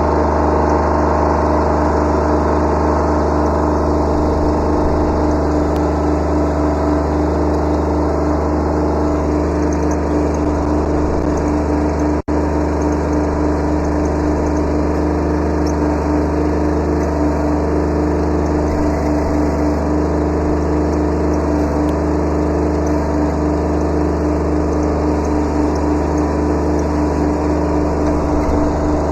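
Kubota B7100 subcompact tractor's three-cylinder diesel engine running steadily, with no revving up or down. There is a momentary break in the sound about twelve seconds in.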